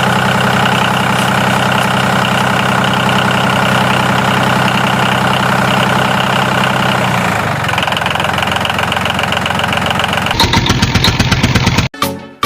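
Tractor-style engine running steadily. Its tone shifts about seven seconds in, it turns to a rapid pulsing near the end, then it cuts off abruptly.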